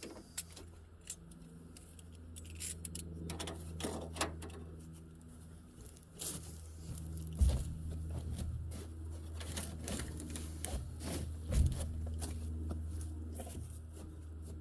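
Rubber fuel hose being handled and cut by hand: irregular scraping, rustling and small clicks, with two sharper knocks, about halfway through and again near the end, over a steady low hum.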